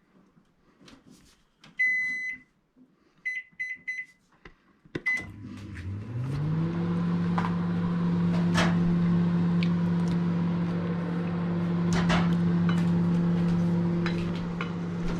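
Microwave oven keypad beeping: one long beep, then a quick run of short beeps as the time is set. About five seconds in the oven starts with a click, and its hum rises over about a second to a steady drone as it heats.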